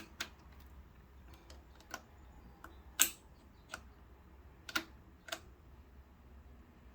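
Scattered light clicks and taps as a magnet tool is worked in among the mechanism of a Kenmore sewing machine to fish out a small loosened screw. There are about eight clicks at uneven intervals, the loudest about three seconds in.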